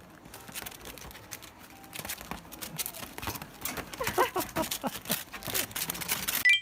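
A puppy's claws clicking and pattering rapidly on a hard floor, with a few short high squeaky sounds about four seconds in; the sound cuts off abruptly at the end.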